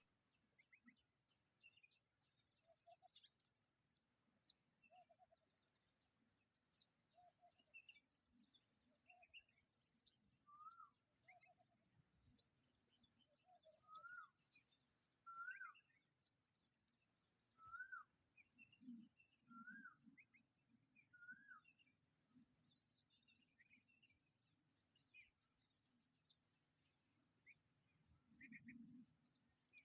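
Faint outdoor bird calls: a series of short repeated low notes, then a series of rising-and-falling whistled notes about every second and a half, with scattered higher chirps, over a steady high-pitched hiss.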